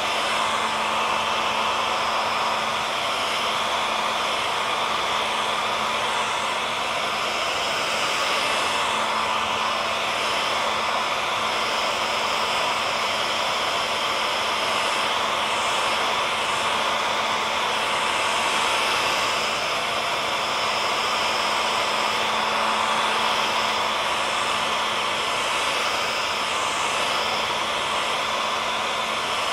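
Hair dryer running continuously: a steady whooshing blow of air with a constant motor hum underneath.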